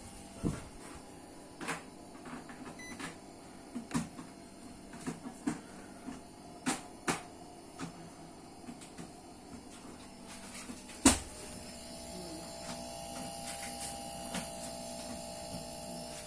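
Scattered light clicks and knocks of objects being handled, with one much louder knock about eleven seconds in, over a steady hum.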